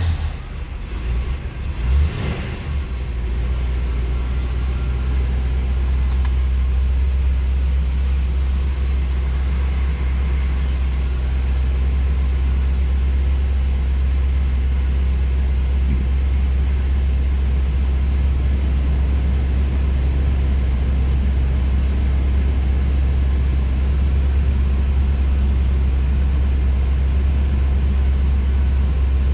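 1979 Oldsmobile Hurst/Olds V8 just fired on a cold start. It runs unevenly for the first couple of seconds with a short rev about two seconds in, then settles into a steady idle as it warms up.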